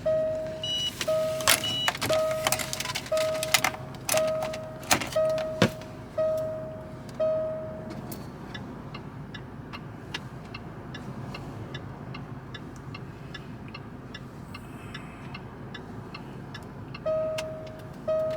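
Car warning chime dinging at one steady pitch about twice a second; it stops about eight seconds in and starts again near the end. Sharp clicks and knocks of handling things inside the car come over it during the first six seconds.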